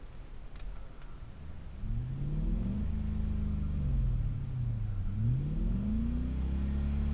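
Car engine revved up and held at steady revs, allowed to fall back slowly, then revved and held again, as when revs are held at the start line before a launch.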